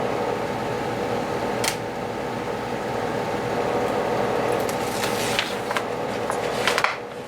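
Steady hum of a fan running, with a few light clicks and rustles of a vinyl strip being peeled off its backing sheet.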